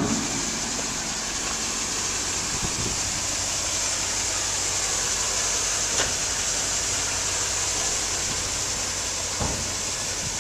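GMC C6500 dump truck's 8.1-litre gasoline V8 idling steadily, with a constant low hum and hiss and a couple of faint clicks.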